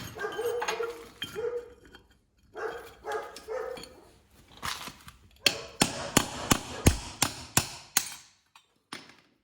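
Hammer blows on steel, a rapid run of about ten strikes in the second half, knocking a broken bearing out of a flail mower roller. Before them come a few shorter, softer knocks and pitched sounds.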